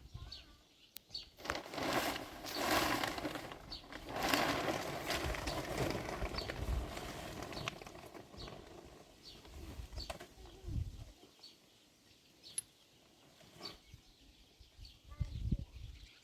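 Small birds chirping again and again in short high notes. Bursts of rustling or rushing noise fill roughly the first half.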